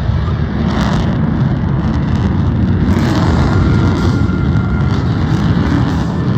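Single-engine F-35A jet in afterburner during a tight turn, a loud, steady, deep rumbling jet noise.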